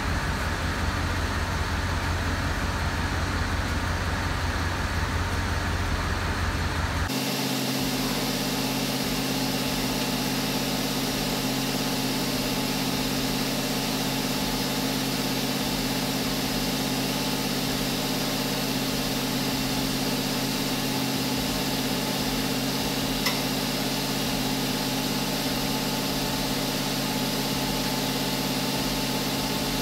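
Mercedes-Benz engine idling steadily while the hydraulic suspension is tested to see whether it lifts the car. The hum changes abruptly about seven seconds in, then settles into a steady drone.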